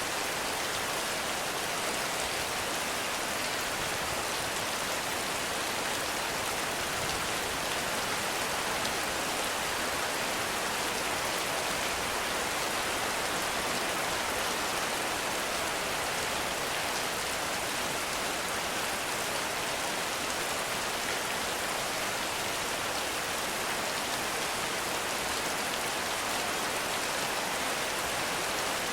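Heavy rain falling on a forest, a steady, even hiss of dense drops with no thunder or distinct strikes.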